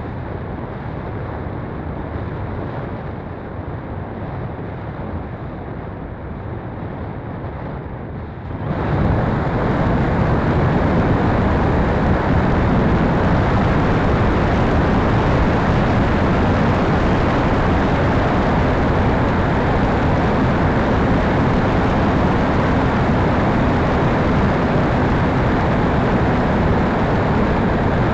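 Steady rushing wind and airflow noise from the E-flite Conscendo RC glider in flight. It jumps suddenly louder about nine seconds in and stays steady, with a faint even hum underneath.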